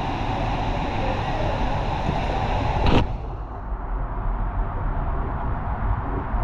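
Water rushing down a waterslide tube, recorded on a ride-mounted action camera. A sharp knock comes about three seconds in, and after it the rush goes on more muffled.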